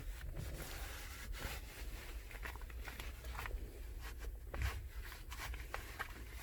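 Soft rubbing with scattered small clicks and taps as a Lysol disinfecting wipe is worked around a truck's steering wheel.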